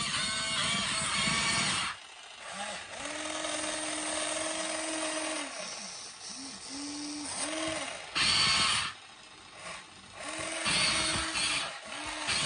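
Small electric motors of a toy excavator whining in a series of start-and-stop runs, some long and some short, with louder grinding-like spells at the start and twice near the end.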